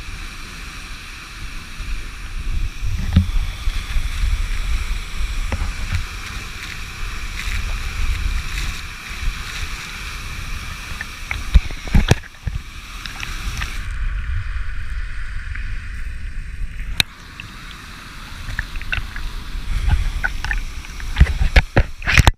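Rushing water at a waterfall pool, a steady noisy wash with a low buffeting rumble on the microphone and a few sharp knocks, about halfway through and near the end.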